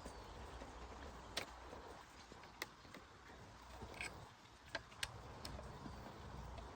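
Scattered light clicks and taps, about six of them at irregular intervals, from small tools and parts being handled, over a faint low rumble.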